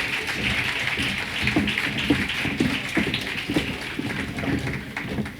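Audience applause with a steady beat of sharp strikes, about two a second, running through it.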